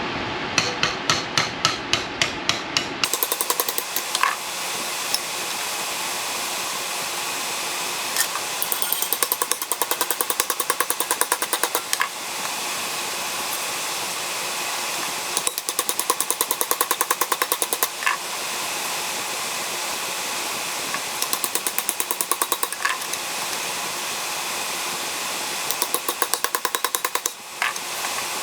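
A hammer striking sheet steel in quick runs of blows, about five a second, in several bursts with short pauses between them: the steel is being folded into an angle along a scribed line. A steady hiss runs underneath.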